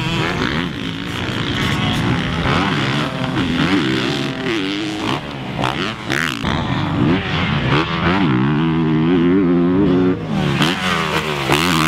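Single-cylinder four-stroke engine of a Honda CRF450R motocross bike revving hard as it is ridden, its pitch climbing and falling again and again with the throttle and gear changes.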